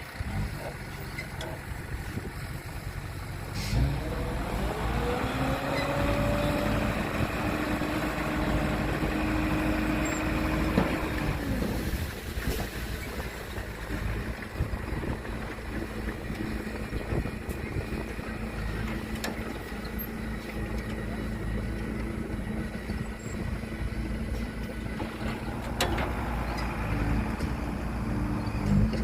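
Heavy diesel engine running. About four seconds in it revs up to a higher, steady pitch, holds there for several seconds, and drops back near the twelve-second mark, then runs on at a steady low rumble.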